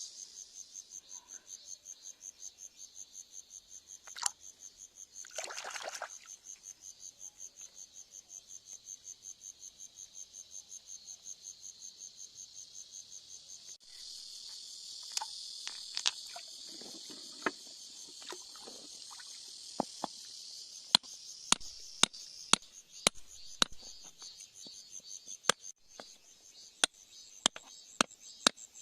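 Insects chirping steadily in a rapid, even pulse, high-pitched. In the second half comes a run of sharp clicks or taps, about one a second.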